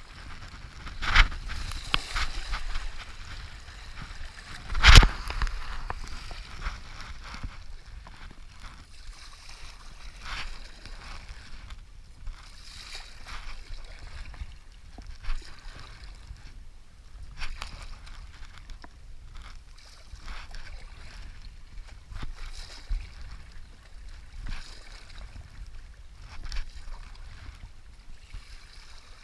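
Paddle strokes splashing irregularly into rushing river water from a whitewater stand-up paddleboard, with one loud knock about five seconds in.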